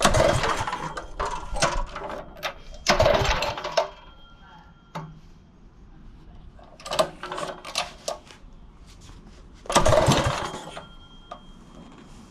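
Tillotson 212 small single-cylinder engine revved in short bursts, four times, dropping back to a quiet idle between them, after its carburettor has been leaned out and a little choke added.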